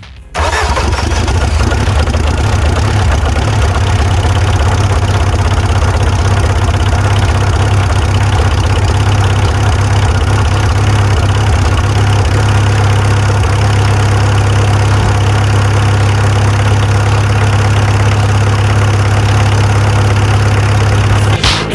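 A vehicle engine idling steadily with a strong low hum, cutting in abruptly about half a second in.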